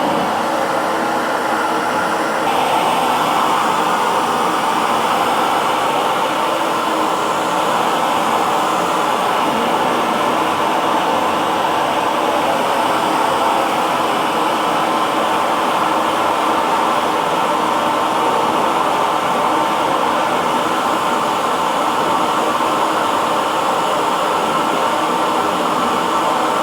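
Electric hair dryer running continuously, a steady blowing whir of fan and rushing air. Its tone shifts slightly about two and a half seconds in, then holds steady.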